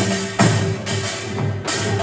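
Korean traditional (gugak) ensemble music played live: sharp percussion strikes, one about half a second in and another near the end, over held low pitched tones.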